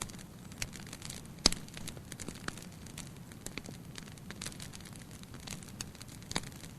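Wood fire in a fireplace crackling: irregular sharp pops and snaps over a soft steady hiss, with a louder pop about one and a half seconds in and another near the end.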